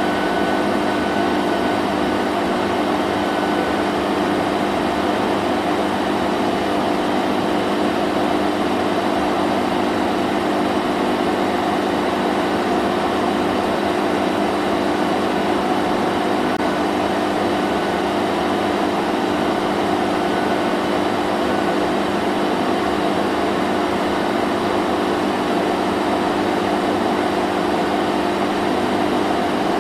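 Vacuum cleaner running steadily: an even motor hum with a constant airflow hiss.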